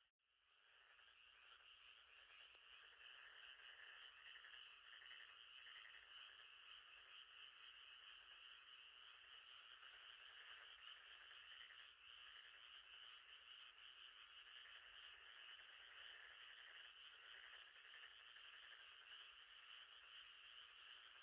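Faint, steady chorus of frogs trilling at night. It cuts out for an instant at the start and fades back in over about a second.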